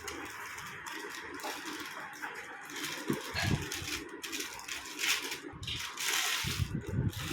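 Packaging rustling and vacuum cleaner parts being handled, in irregular bursts with a few soft knocks.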